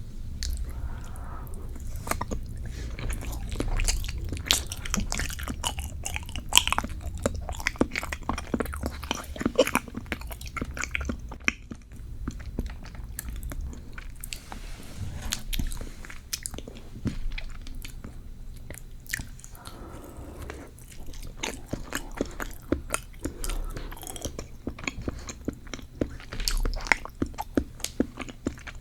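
Close-miked chewing of a thick, dense cheesecake: a steady run of small mouth clicks and bites, irregular and without pause.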